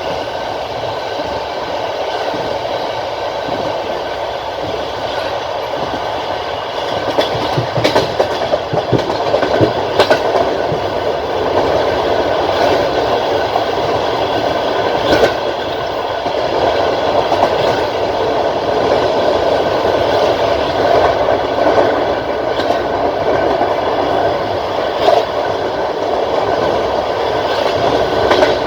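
Passenger train carriage running at speed, a steady rumble of wheels on rails with a few sharp clacks as the wheels cross rail joints.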